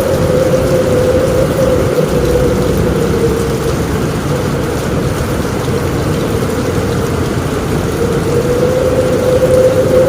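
Steady rain on a roof with a deep, continuous rumble underneath and a wavering whistle of strong wind, which swells again near the end.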